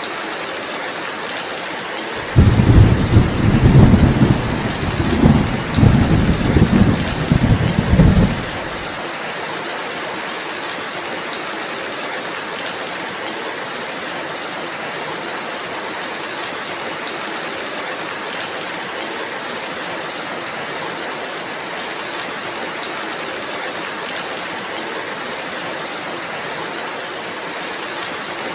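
Steady rain falling. About two seconds in, thunder breaks in suddenly as a loud low rumble that surges several times for about six seconds, then stops, leaving the even sound of the rain.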